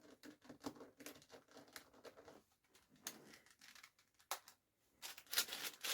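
Plastic speedcube being turned by hand, its layers clicking and clacking in quick irregular runs, busiest near the end. The cube is new out of the box and dry, unlubricated.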